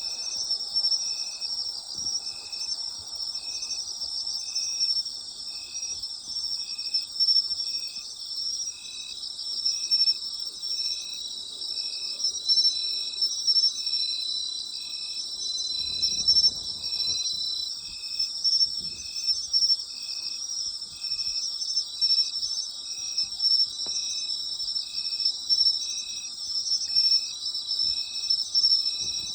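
Night chorus of autumn insects: a dense, steady high trilling from many insects, with one insect chirping evenly about once a second at a lower pitch. A faint low rumble passes about halfway through.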